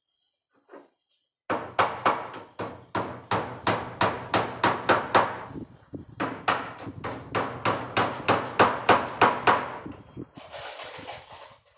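A hammer striking nails in a steady run of about three blows a second, with a short pause in the middle, as asbestos-cement wall sheets are fixed in place. A brief scraping noise follows near the end.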